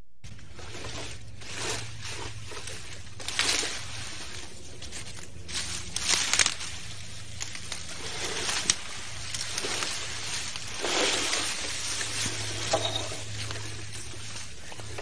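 A ship's engine hums steadily, with irregular bursts of rustling and rushing noise over it.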